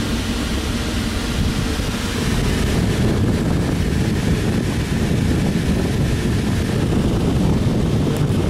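Steady low rush of moving air from an HVAC indoor air handler's blower, with no break or change in level.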